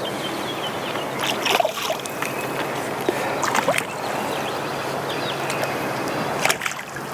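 Choppy water lapping and sloshing against a small fishing boat's hull in the wind, a steady splashy wash. It is broken by a few short knocks or splashes about a second and a half, three and a half and six and a half seconds in.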